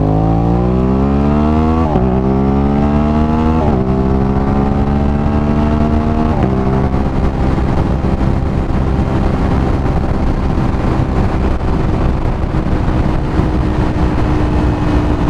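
Aprilia RS 660's parallel-twin engine accelerating through the gears: its pitch climbs and drops at upshifts about 2, 4 and 6 seconds in, then holds a steady cruising note.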